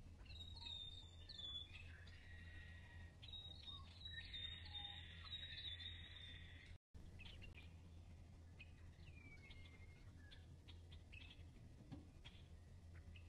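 Faint birds chirping and trilling over a steady low hum. The sound cuts out completely for a moment about seven seconds in.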